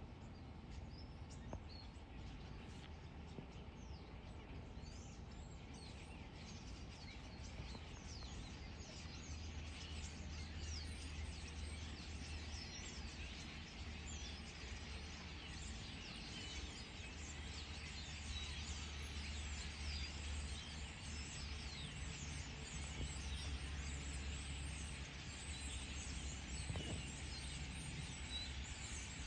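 A large flock of birds gathering to roost: a dense chorus of many overlapping chirps and calls that thickens and grows louder after the first several seconds, over a steady low rumble.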